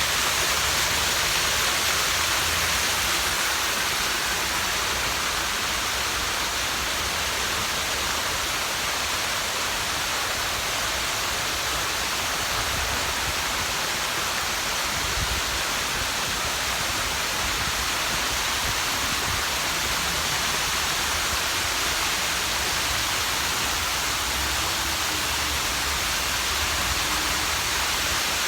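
Steady rush of water pouring over a memorial waterfall into a shallow pool, an even hiss that holds constant.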